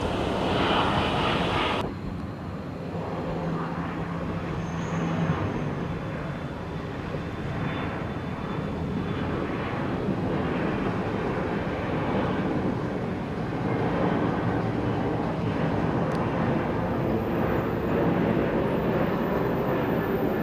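Embraer regional jet's turbofan engines running steadily as the aircraft moves along the runway after landing, a continuous jet rumble and hiss.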